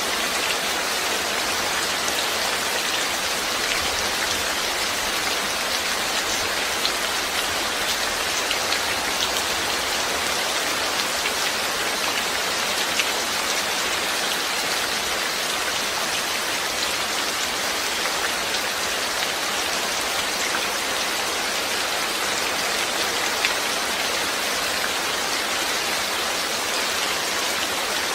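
Steady rain falling, a constant hiss dotted with the small taps of individual drops.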